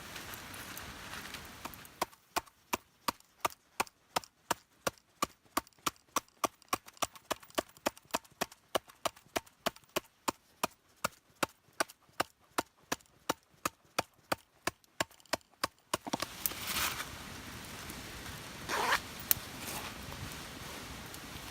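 Rapid, even chopping strokes on wood, about three or four sharp knocks a second. They start about two seconds in and stop about two-thirds of the way through, after which a couple of brief rustling noises are heard.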